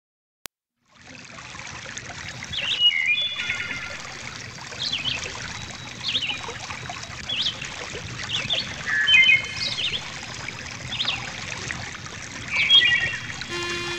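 Running water trickling, with songbirds calling over it: short sweeping chirps about once a second and a few trilled phrases. The water and birds start about a second in, after a brief silence with one faint click.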